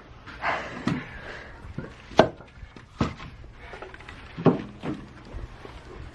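Axe blows on oak firewood: several sharp wooden knocks at irregular intervals as the rounds are split.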